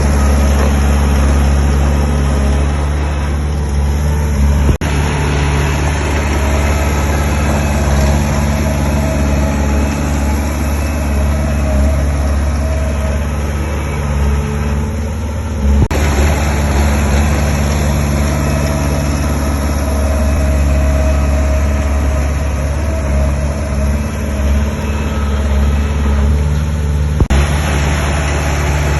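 Heavy diesel engine of earthmoving machinery running steadily with a deep, even hum, with a few abrupt breaks in the sound.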